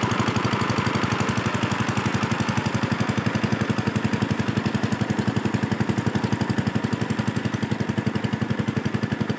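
Hand tractor's single-cylinder diesel engine running with a steady, rapid chugging.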